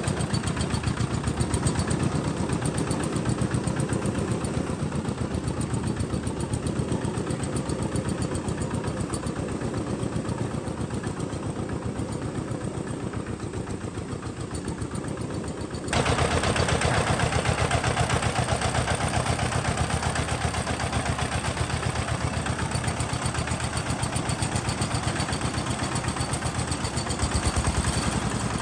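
Homemade tractor's engine running steadily with a fast, even beat. About halfway through the sound changes abruptly and becomes louder and brighter.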